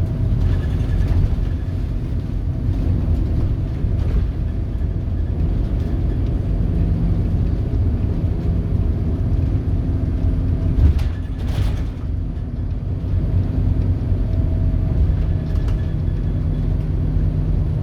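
Scania DC9 five-cylinder diesel of a Scania K280UB bus running with a steady low drone. There is a brief knock about eleven seconds in.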